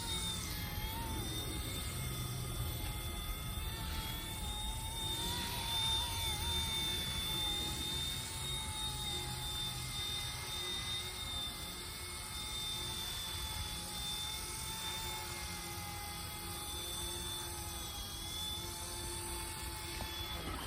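Eachine E120 electric RC helicopter's motors and rotors whining steadily in hover, the pitch wavering slightly now and then, with wind rumbling on the microphone.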